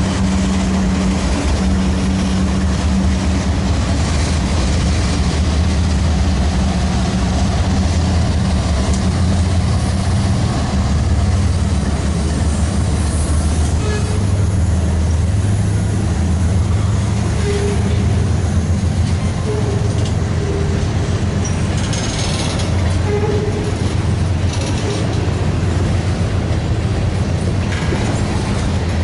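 Freight train passing close by: CSX diesel locomotives rumbling past at first, then the steady rumble and clatter of boxcars and covered hopper cars rolling along the rails.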